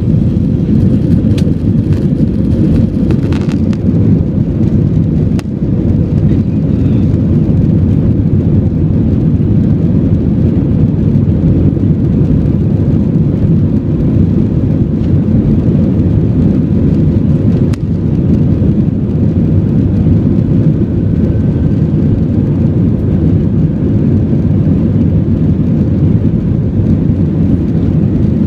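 Airbus A320 cabin noise from the rear rows at high engine thrust during takeoff: a loud, steady deep rumble of engines and airflow, with a few light rattles in the first few seconds.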